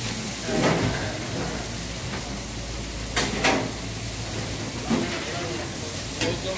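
Chicken pieces frying in hot oil in a steel karahi wok over a gas burner, a steady sizzle.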